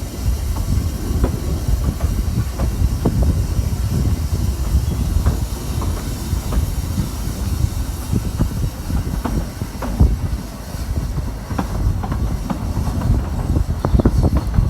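Narrow-gauge train running along the track with irregular clicking from the wheels, under heavy wind buffeting on the microphone.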